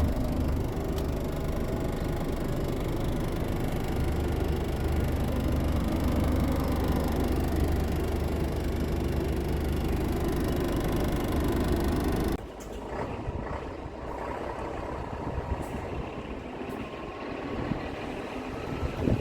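A steady, low engine-like drone that cuts off abruptly about twelve seconds in, giving way to a quieter, rough rumbling noise.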